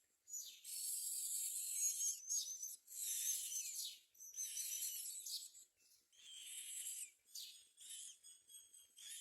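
Myna nestlings giving high, harsh begging calls in repeated bursts about a second long with short gaps between them. The bursts come shorter and choppier near the end.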